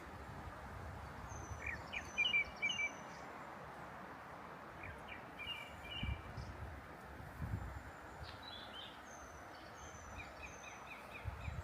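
Small songbirds chirping in short twittering phrases, three bouts spread through the stretch, over a steady outdoor hiss. A few dull low thuds sound around the middle and near the end.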